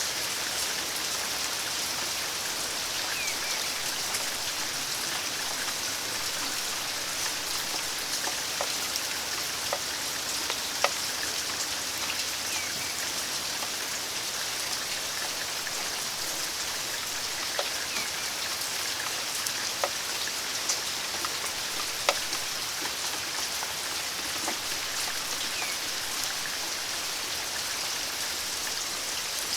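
Steady rain falling, an even hiss with the odd louder drop tapping sharply on a nearby surface.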